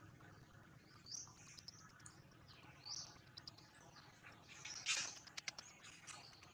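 Faint, short, high bird chirps, with a burst of leaf rustling and crackling clicks about five seconds in as the young macaque handles and chews a leaf.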